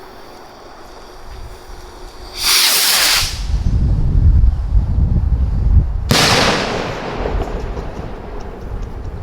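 Lunatic salute rocket launching with a short loud hiss about two and a half seconds in, then its salute going off with a sharp, loud bang about three and a half seconds later that rumbles away.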